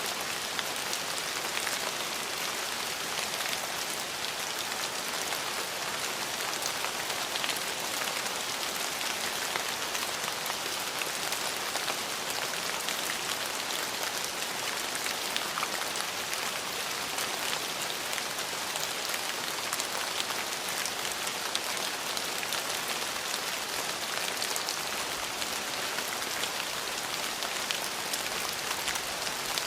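Steady rain falling, an even hiss of many drops pattering on surfaces, with small drop ticks scattered through it.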